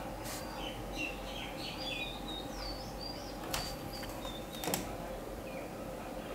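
Small birds chirping, with short quick calls that are busiest in the first few seconds, over a faint steady hum. Three sharp clicks sound, one just after the start and two close together past the middle.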